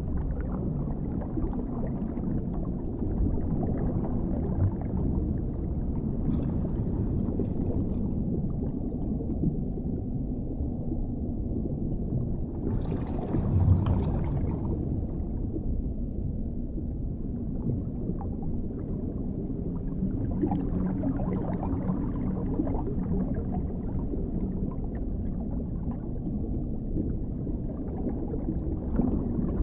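Dark underwater ambience: a continuous deep, muffled rumble with gurgling water, swelling louder and brighter for a second or two about halfway through.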